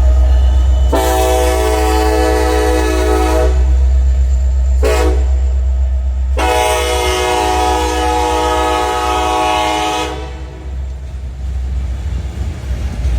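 Diesel locomotive air horn sounding the grade-crossing signal, long, long, short, long, with the last blast held longest, over the low rumble of the passing train. The pattern warns of the train's approach to a road crossing.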